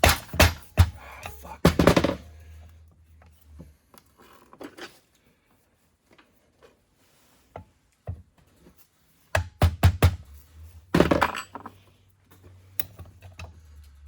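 Knocks and clinks of metal two-stroke engine parts being handled and tapped during a teardown, in two busy stretches: one in the first two seconds, another from about nine to twelve seconds in, with near silence between.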